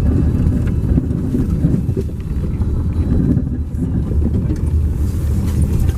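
Steady low rumble of a motor vehicle running, with no sharp events standing out.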